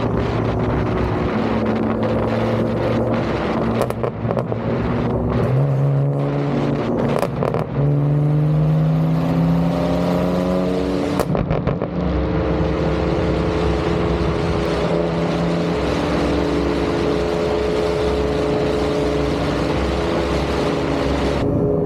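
BMW G80 M3's twin-turbo 3.0-litre inline-six running through an IRL full modular 3.5-inch single-pipe exhaust, the valve open. It holds steady, then climbs in pitch through a couple of gear changes between about six and eleven seconds in, and settles to a steady cruise.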